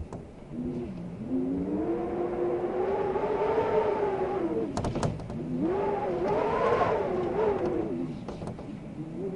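Wind howling in gusts, a wavering pitched moan that rises and falls over two long swells, with a few faint ticks between them.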